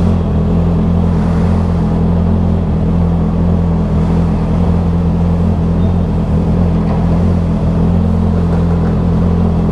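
Vehicle engine running at a steady speed, an even low hum that holds its pitch without revving up or down.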